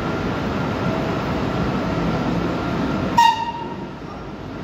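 Passenger train pulling slowly out of the station, the coaches rumbling steadily over the rails. About three seconds in comes one short, high-pitched horn toot.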